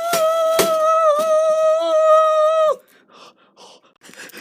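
A voice holding one long, high wail that cuts off abruptly near three seconds in, with a few sharp knocks during it.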